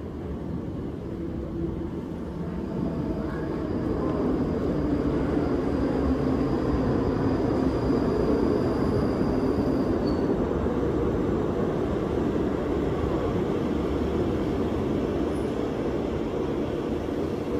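A passenger train running along the platform: a steady rumble of wheels on rails that swells over the first few seconds, holds, then eases slightly, with a faint high whine through the middle.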